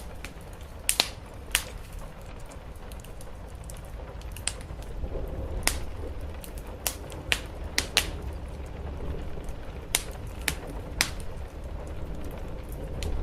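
Wood fire crackling in a fireplace, with sharp, irregular pops, a few of them loud, over a steady low rumble of rain on the roof.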